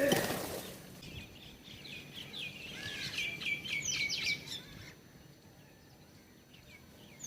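A small songbird singing a rapid run of chirping notes that speeds up and ends in a few higher, sharper notes. It follows a brief rush of noise at the very start.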